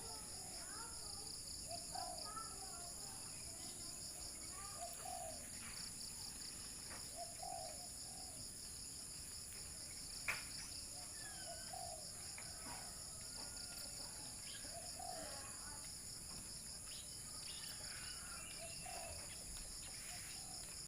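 Spotted dove (terkukur) cooing, short low coos repeated every couple of seconds over a steady high-pitched insect drone. Other small birds chirp faintly, and there is one sharp click about ten seconds in.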